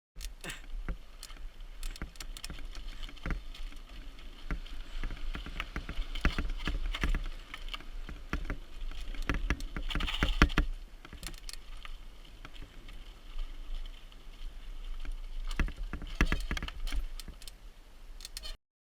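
Mountain bike rattling and clattering over rough trail, with many quick knocks and clicks over a steady low rumble. It is busiest about six to eleven seconds in and again near the end, and cuts off suddenly just before the end.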